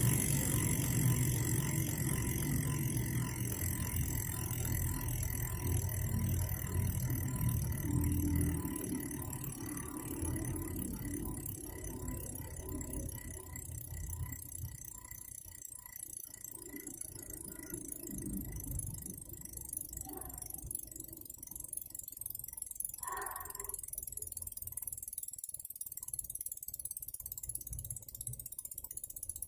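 Powerway R36 rear hub's freehub buzzing as the wheel spins freely and coasts down. It grows gradually quieter as the wheel slows, with a low rumble fading out in the first half.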